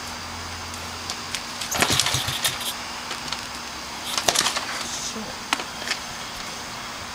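Dirt bike being started, with two brief attempts about two seconds in and again about four seconds in; the engine does not catch and keep running.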